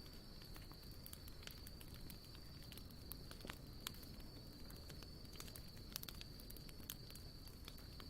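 Wood campfire crackling softly, with frequent irregular sharp pops and ticks. A steady thin high tone, like an insect trill, runs underneath throughout.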